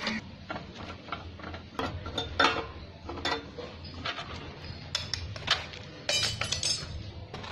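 Hand tools and metal parts clinking and knocking as a Lambretta scooter engine's fittings are undone: irregular sharp clicks and taps, with a short ringing metallic clatter about six seconds in.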